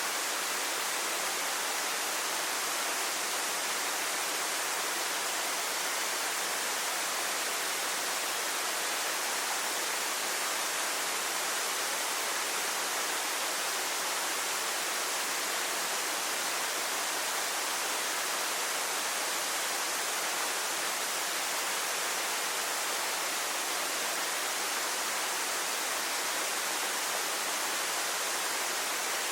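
Waterfall pouring steadily: a constant, even rush of falling water with no other sounds standing out.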